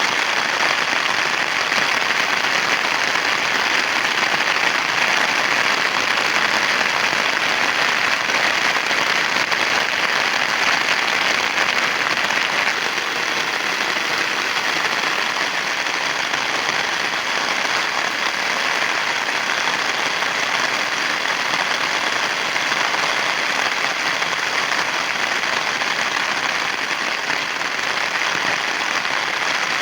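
Heavy rain falling steadily, a dense, even hiss of many drops.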